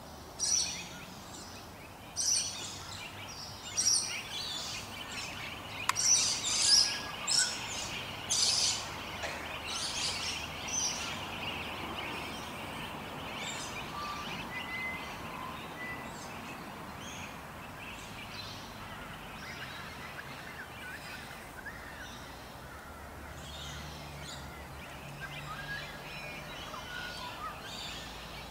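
Small birds chirping and calling in quick, high bursts, busy and loud for the first ten seconds or so, then fainter and more scattered over a steady outdoor background noise.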